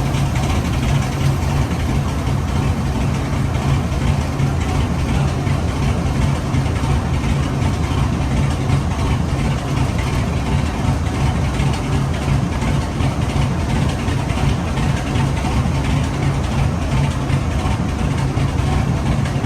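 Two GE WDG4G diesel-electric locomotives idling together. Their GEVO V12 diesel engines run with a steady low rumble and a crackling exhaust.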